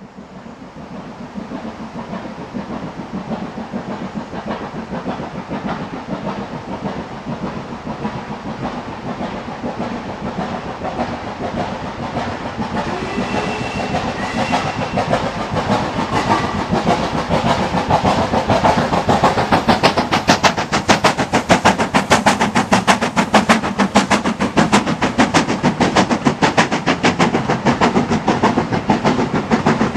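Steam locomotive working a train with rapid, even exhaust beats, growing steadily louder as it approaches and loudest in the last third.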